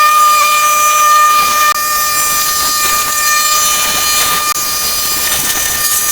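A machine's steady high-pitched whine over a hiss, holding one pitch throughout.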